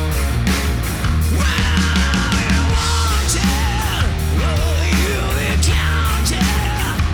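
Live hard rock band playing loud: distorted electric guitar, bass and drums with a steady beat. From about a second and a half in, a lead line slides and bends in pitch over the band.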